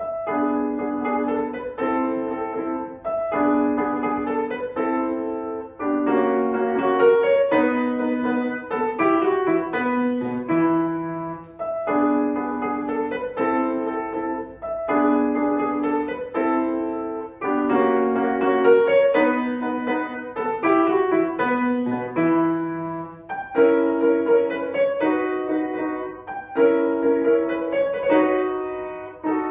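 Piano playing a classical piece in repeated chords, starting at the opening after silence.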